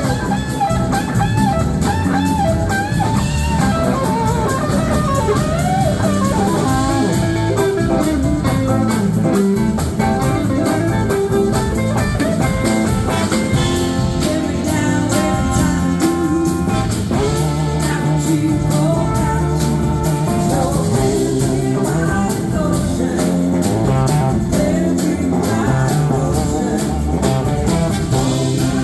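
Live blues band performing a slow blues: electric guitar lead over drums and bass, with notes that bend and glide in pitch.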